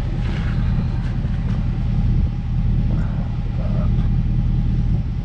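Vehicle engine idling steadily, a continuous low rumble.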